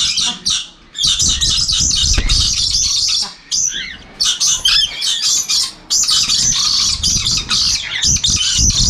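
Lories squawking: harsh, shrill parrot calls in quick succession, with short breaks between runs.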